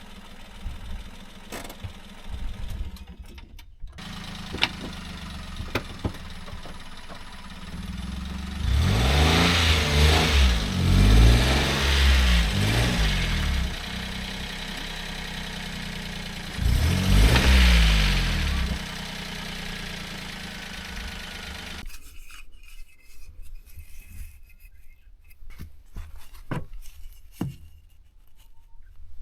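Small kei-truck engine running low and steady, revving up twice with a rising and falling pitch, then switched off about three-quarters of the way in. A few faint clicks follow.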